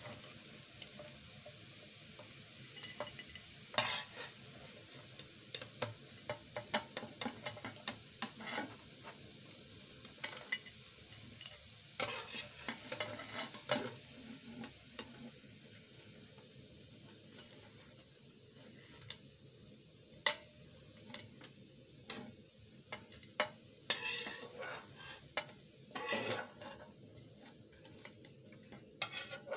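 Roti noodles sizzling in hot ghee in a wok while a slotted spatula scrapes and knocks against the pan, scooping them out onto a plate. The frying hiss grows quieter in the second half, with sharp spatula clicks throughout.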